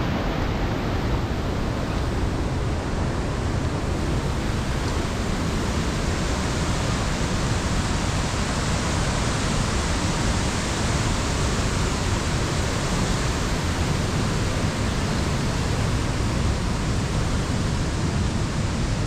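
Steady rushing of fast-flowing water, an even noise with no breaks or separate sounds.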